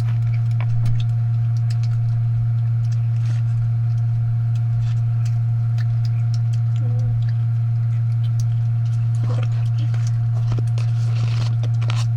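A loud, steady low hum with no change in level, and faint scattered clicks and small handling sounds over it.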